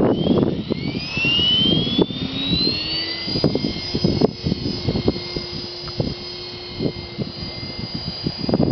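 Blade 400 electric RC helicopter spooling up: the motor and rotor whine climbs in pitch over the first three seconds, then holds steady at flying speed. Wind buffets the microphone with gusty rumbling and thumps throughout.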